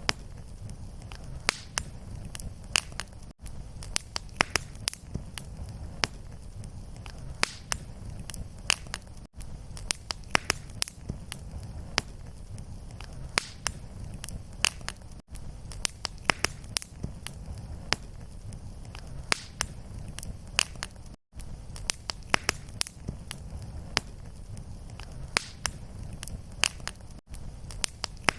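Fireplace fire crackling: sharp pops several times a second over a steady low rumble. There is a brief dropout about every six seconds, where the looped recording restarts.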